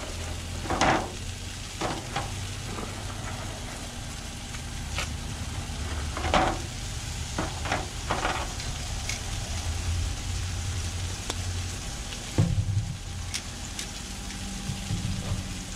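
Peppers, onions and tomatoes sizzling on a hot Blackstone flat-top griddle, with several sharper hisses in the first half as water from a squeeze bottle hits the hot steel and flashes to steam.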